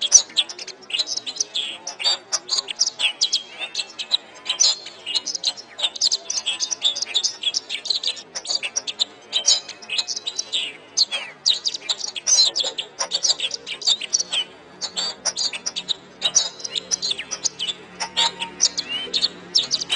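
Domestic canary singing a fast, continuous song of rapid chirps and trills. Low steady musical tones come in faintly near the end.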